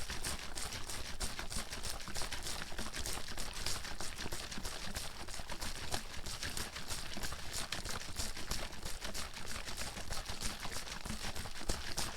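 Bottle of water shaken steadily and continuously, the water sloshing and slapping inside in a fast, uneven run of sharp splashy strokes.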